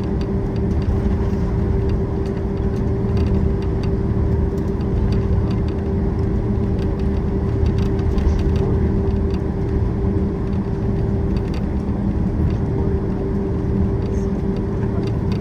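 Cabin noise of a Boeing 767-400ER taxiing: a steady engine hum with one held tone over a low rumble, and faint scattered clicks.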